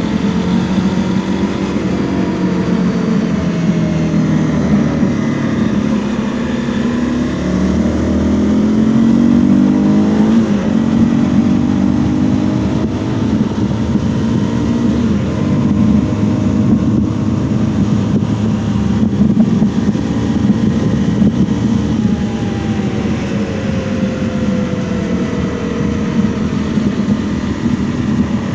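Honda CRF250L's single-cylinder 250 cc engine running under way, its pitch rising as it accelerates and dropping back at gear changes, about a third of the way in and again later.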